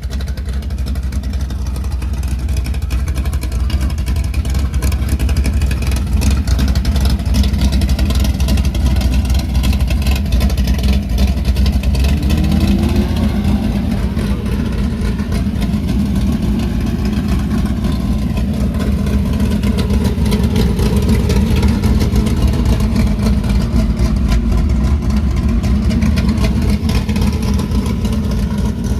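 Loud car engine running and being revved, getting louder over the first few seconds and then holding at a high, steady pitch.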